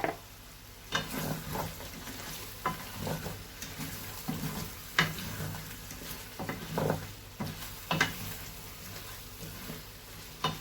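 A spoon stirring chicken masala stew in a pot, with irregular scrapes every second or two over a steady sizzle as the chopped coriander is stirred in.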